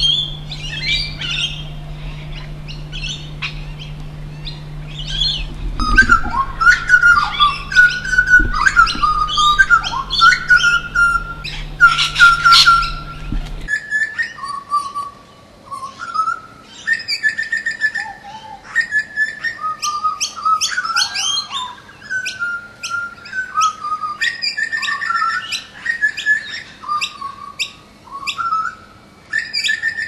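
Several birds singing and chirping at once, warbling whistles overlapping with short sharp chirps, louder from about five seconds in. A low steady hum runs underneath and stops suddenly about halfway through.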